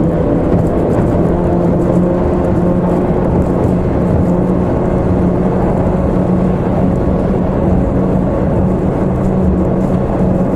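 2-stroke 25 horsepower outboard motor running steadily at speed, heard on board the small hydroplane over a constant rushing noise, its pitch holding even with no revving up or down.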